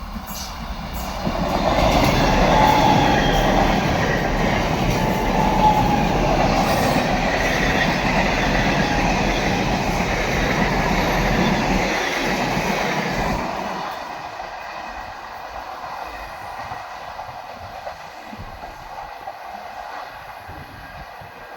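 Indian Railways train passing close by on the rails. It gets loud about two seconds in, stays loud for some ten seconds, then fades away as it recedes.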